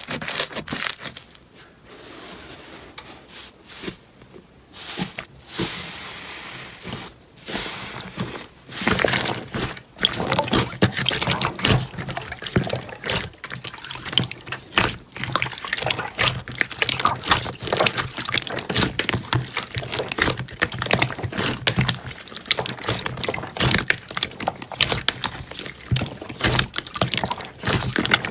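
Slime being poured and worked by hand, making wet, sticky sounds. It is softer for the first several seconds, then from about ten seconds in it turns into a dense, continuous run of small clicks and pops.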